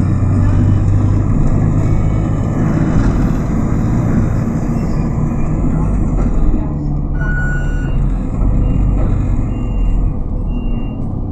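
Road traffic rumbling steadily, with heavy vehicles such as trucks among it. About seven seconds in, a short tone sounds, then a beeper starts sounding about once a second, typical of a vehicle reversing.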